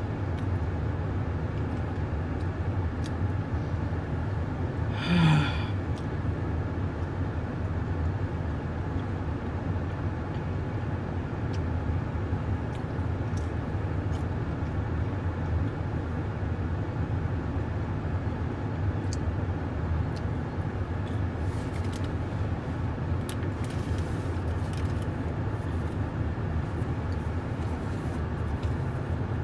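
Steady low rumble of a car's running engine, with one short rising voiced sound about five seconds in and a few faint clicks.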